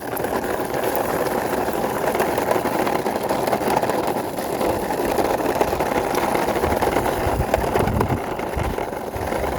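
Plastic wheels of a hand-pushed toy car rolling along a concrete wall, a steady rolling grind that keeps going without a break.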